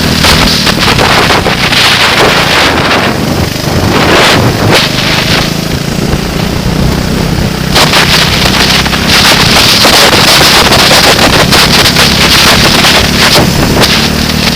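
Loud wind buffeting and crackling on the microphone, with a racing vehicle's engine running underneath. The buffeting grows stronger about halfway through.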